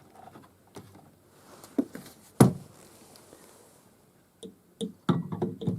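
Scattered handling clicks and knocks as the multimeter test leads are moved to the next pair of brushless motor wires, with one sharp click about two and a half seconds in and a quick cluster of clicks near the end.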